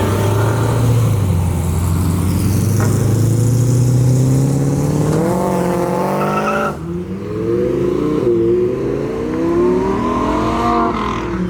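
A performance car's engine accelerating hard, its pitch climbing steadily for about six and a half seconds and then cutting off abruptly. The revs then build again in a second, wavering rise that drops off just before the end.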